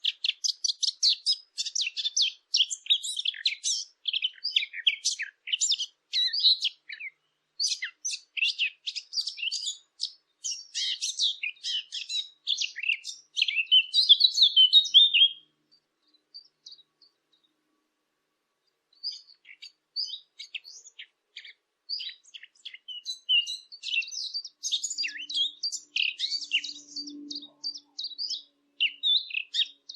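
Birds chirping and twittering in quick, dense runs of short high notes, falling silent for about three seconds near the middle, then starting up again more sparsely.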